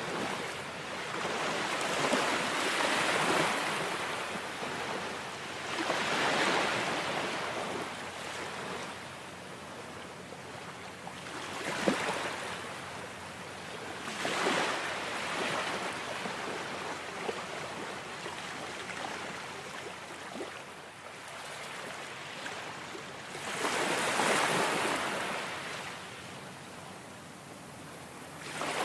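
Ocean waves surging in and washing back, the rush of water swelling every few seconds, with one brief sharp splash near the middle.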